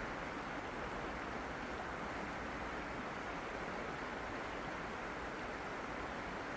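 Steady rushing of running water, an even unbroken hiss with no separate splashes or surges.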